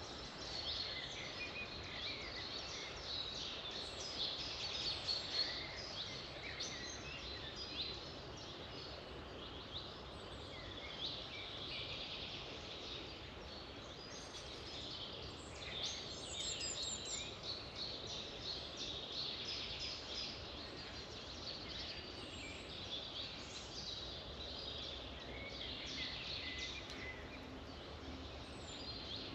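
Several songbirds singing at once, a dense chorus of short chirps and quick trills, over a faint steady background hiss.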